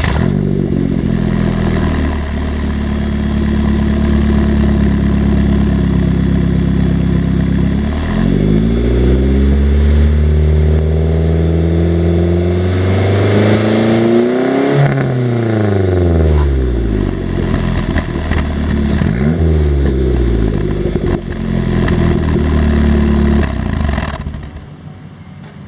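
Turbocharged 2006 Pontiac Solstice 2.4 L four-cylinder running through a 3-inch stainless Magnaflow exhaust. It idles just after starting, revs up to one high peak about halfway through and drops back, gives a short blip of the throttle later, then idles again and is shut off near the end.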